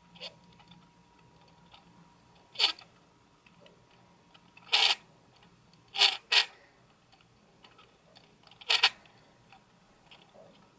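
Optical SteadyShot stabilizer motor in a Sony SEL50F18 50mm f/1.8 lens on a NEX-5N camera, grinding in about five short bursts as the stabilization engages, with faint ticking between them. The owner suspects the grinding is not normal for this lens.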